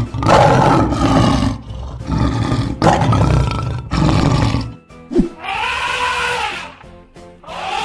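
Lion roaring: four long, rough roars one after another, over background music. After them come two shorter pitched calls that rise and fall.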